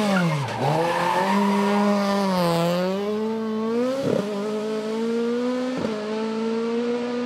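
Race car engine at high revs on a hillclimb, dropping sharply about half a second in, then pulling steadily. Two short sharp cracks cut through it, about 4 and 6 seconds in.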